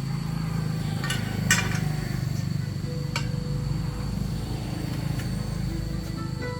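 A steady low mechanical rumble with a few sharp metal clinks, about one second in, again half a second later and once more about three seconds in, from tools being handled.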